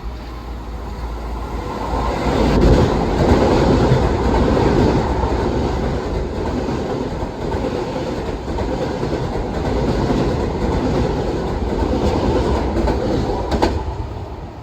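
Long Island Rail Road train running past along the tracks. Its noise builds over the first few seconds, holds steady, and eases off near the end.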